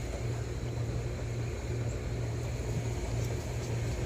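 Steady low mechanical hum from the 1998 Chevy Venture minivan as it sits after a drive.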